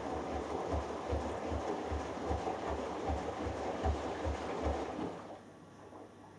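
Hoover Dynamic Next washing machine drum turning in its delicates wash, water and laundry sloshing with low thuds about two and a half times a second, then stopping about five seconds in as the drum pauses.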